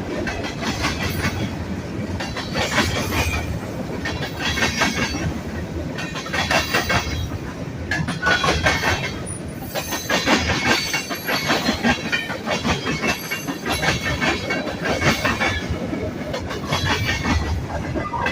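Freight cars of a manifest train rolling past, wheels clacking over rail joints in groups that come about every two seconds over a steady rumble.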